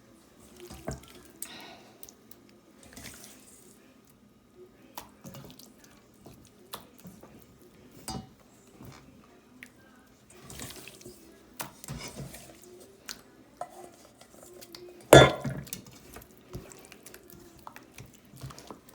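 Diced chicken being stirred into a thick wet batter in a bowl: scattered wet squelches and light knocks against the bowl, with one louder knock about fifteen seconds in.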